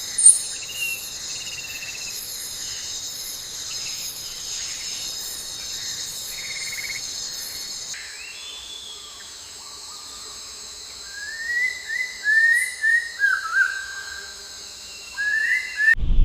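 Steady high-pitched insect chorus with a bird calling in a run of short whistled notes that slide up and down, from about eleven seconds in. The ambience cuts off abruptly near the end.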